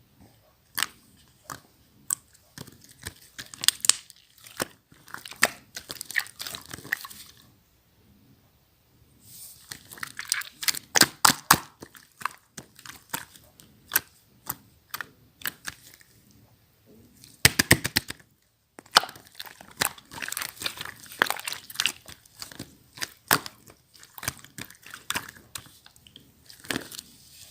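Slime being squished and pressed by hand, giving dense runs of sticky popping clicks and crackles, broken by a couple of short pauses.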